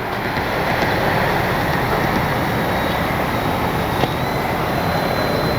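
Steady rushing noise of wind on the microphone, with a faint thin high whine that steps up slightly in pitch about four seconds in.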